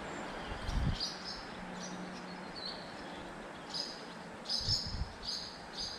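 Small birds chirping in short, high notes repeated every half second or so over a steady faint background hiss, with a couple of low thumps.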